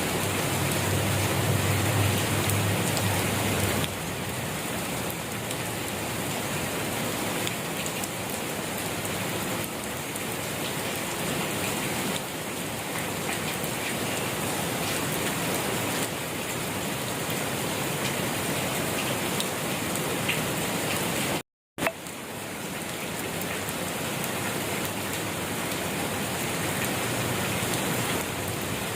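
Rain falling steadily, an even hiss of drops on a surface, with a deeper low rumble in the first few seconds. The sound cuts out for a split second about three quarters of the way through, then resumes.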